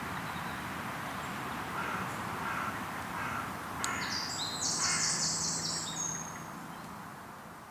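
Outdoor ambience with birds calling: a few short caw-like calls, then a high, stepped bird song, over a steady background hiss. It all fades out near the end.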